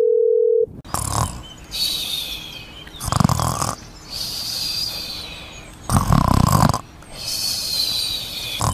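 Snoring, a loud deep snore roughly every three seconds with a whistling breath in between. A steady beep-like tone cuts off about half a second in.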